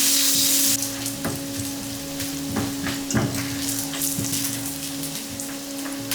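Food frying in hot fat in a pan: a loud sizzle that drops off about a second in, then steady quieter sizzling with scattered clicks of a utensil stirring.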